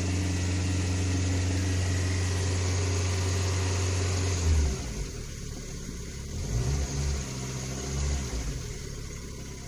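Lada Kalina 2's 21126 four-cylinder engine held steady at about 2000 rpm, then dropping back toward idle about halfway through. The owner is listening for a ticking on the warm engine that he suspects is a knocking hydraulic lash adjuster.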